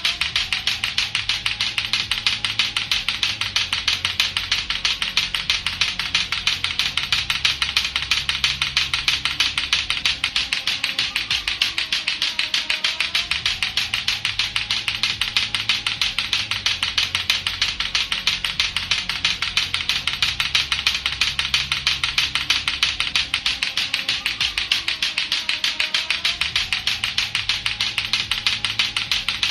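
Latto-latto clackers, two hard plastic balls on a string, clacking together in rapid, steady, unbroken clicking. Under it runs a repeating low backing loop that comes round about every 13 seconds.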